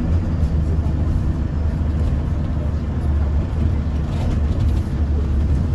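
Steady low drone of a city bus heard from inside while it drives, engine and road noise together.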